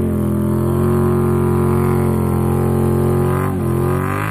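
Engine of a mud-bog vehicle held at steady high revs, with a brief dip in pitch about three and a half seconds in.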